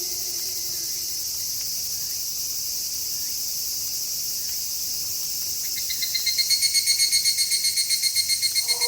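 Night cricket chorus as a steady high shimmer, with the tail of a low, falling wolf howl fading out right at the start. About six seconds in, a louder, rapidly pulsing high chirp begins, about five pulses a second.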